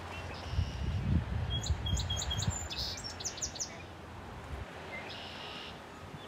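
Wild birds singing: a quick run of about ten high chirps in the middle, and a short harsh high note near the start and again near the end. Wind rumbles on the microphone underneath and drops away about two-thirds through.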